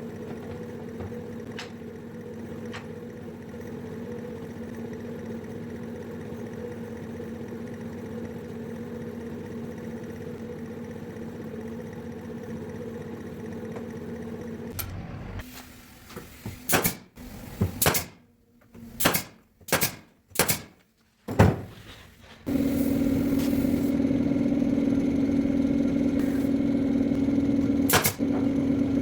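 Woodworking machinery in a workshop: an electric motor running with a steady hum, then a run of short, loud, separate bursts about halfway through, then a louder steady motor hum again.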